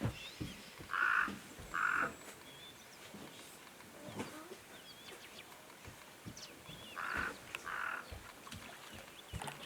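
An animal calling in two short, harsh notes, with the pair repeated about six seconds later, over faint high bird chirps and scattered clicks.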